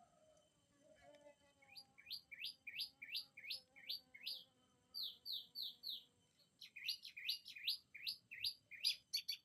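A bird singing a string of repeated sharp, sweeping notes, about two or three a second. It pauses briefly partway through, then quickens into a fast run of notes at the end.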